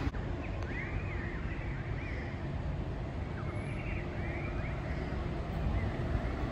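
Birds calling in short, arching chirps, in two bursts about a second and three seconds apart, over a steady low rumble.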